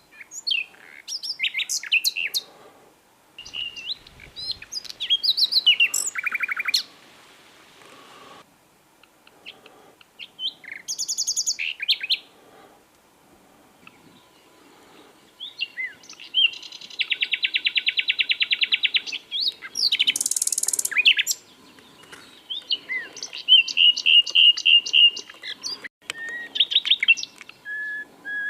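Common nightingale singing: varied phrases of fast repeated notes, rattling trills and pure whistles, each a second or two long and separated by short pauses.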